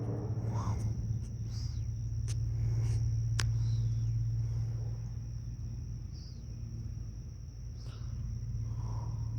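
Night-time crickets trilling steadily over a low steady hum, with a couple of sharp clicks.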